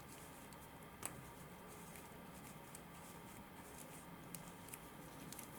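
Near silence with a few faint clicks, the clearest about a second in and a few fainter ones near the end.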